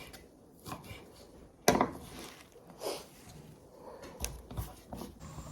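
A few scattered knocks and taps of kitchen work, wood and utensils being handled, the loudest a sharp knock a little under two seconds in.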